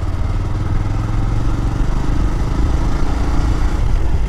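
Motorcycle engine running steadily as the bike picks up speed from a slow roll, heard from the rider's seat.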